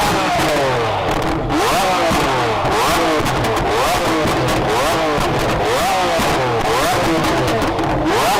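Lamborghini Aventador S's V12 engine being revved over and over, its pitch rising sharply and falling back about once a second, with crackles from the exhaust between the revs.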